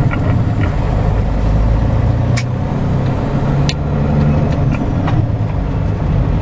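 Semi-truck engine running steadily, heard from inside the cab while driving slowly. A few sharp clicks or rattles come through now and then.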